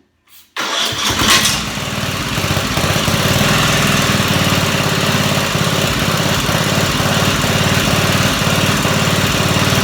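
A Craftsman lawn tractor's small gasoline engine, started on its electric starter. It catches about half a second in, gives a brief louder burst just after, then runs steadily with a fast, even pulsing.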